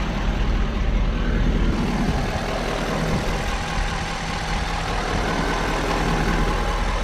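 Ford 6.7-liter Power Stroke V8 turbo diesel idling steadily.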